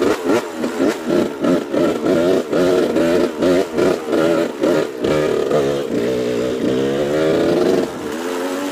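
Dirt bike engine being ridden, its revs surging up and down in quick pulses about three times a second, then pulling more steadily and settling to a lower, even pitch near the end.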